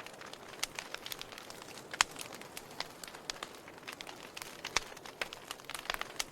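Campfire crackling: irregular sharp pops and snaps of burning wood over a soft steady hiss, the loudest pop about two seconds in.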